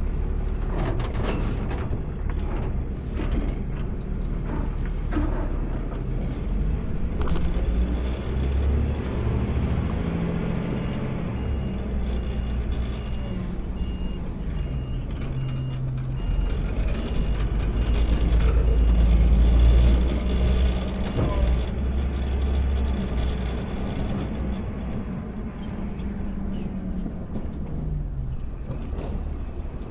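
Automated side-load garbage truck running, heard from the driver's seat: a steady low engine sound whose pitch steps up and down through the middle. A high beep repeats about twice a second for several seconds partway through.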